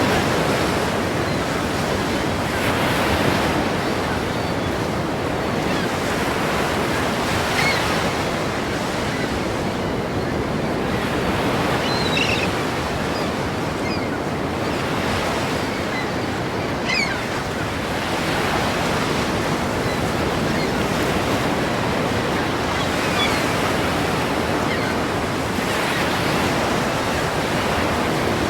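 Ocean surf: waves breaking and washing in, swelling and easing every few seconds.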